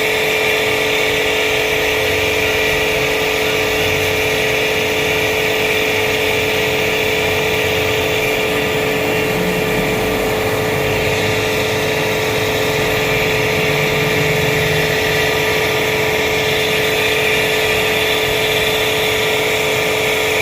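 Steady running motor with a constant whine, unbroken and even throughout.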